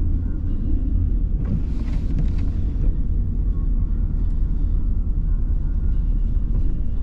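A car being driven gives a steady low rumble of engine and road noise. About a second and a half in, a brief hiss rises over it and lasts about a second.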